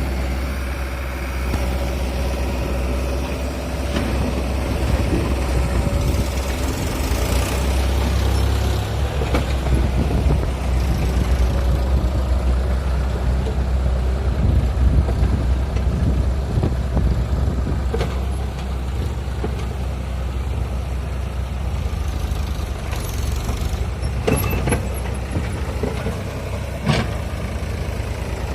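Tractor diesel engine running steadily, with a few short sharp knocks in the latter half.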